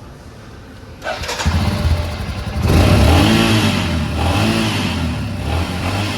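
Royal Enfield Himalayan's single-cylinder engine starting: a brief crank from the electric starter about a second in, then it catches and runs, and is revved up and back down twice.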